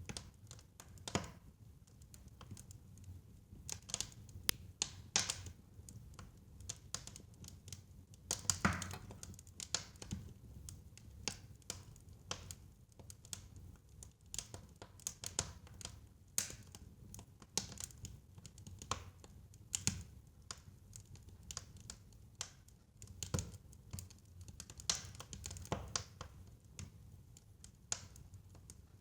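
Fire crackling in a fireplace: irregular snaps and pops, a few a second, over a low rumble.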